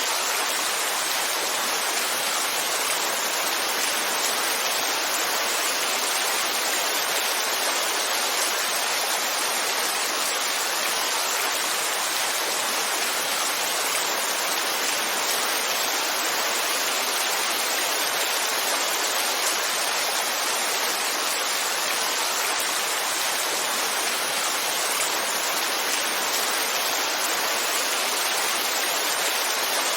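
Heavy rain falling, a steady even hiss without breaks.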